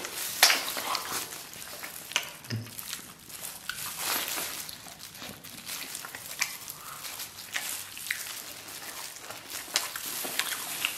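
Close-miked wet chewing and mouth smacks as gelatinous braised beef knuckle, fat and tendon, is bitten off the bone and eaten, with many small clicks and smacks.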